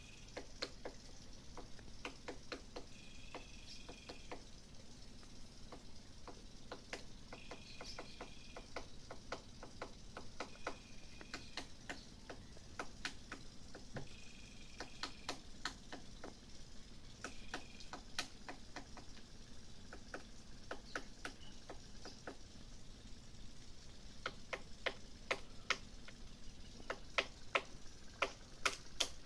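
Woodpecker pecking at wood: irregular sharp taps, coming faster and louder near the end. A short high call sounds every few seconds in the first half.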